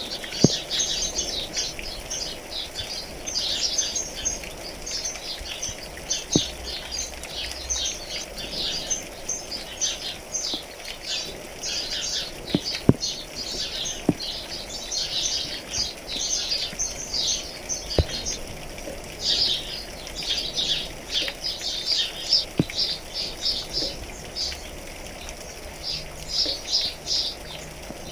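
Many birds chirping and twittering densely in quick high notes, over a steady patter of rain with a few sharper single drips now and then.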